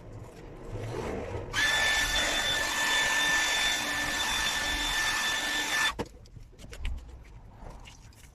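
Electric power tool running at a steady speed for about four seconds, with a constant high whine over a hiss, then cutting off suddenly.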